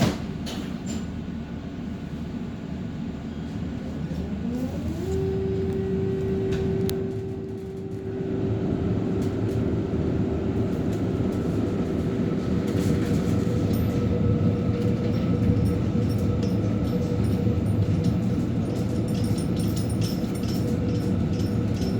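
Electric tram running on rails with a steady rumble. About four seconds in, a motor whine rises in pitch and then holds steady as the tram picks up speed.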